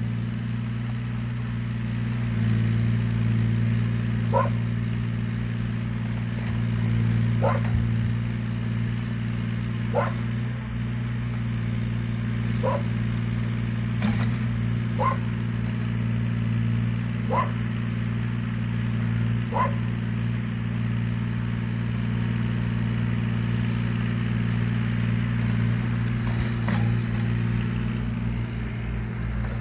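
A Yanmar VIO17 mini excavator's diesel engine running steadily, while a dog barks single barks every two to three seconds.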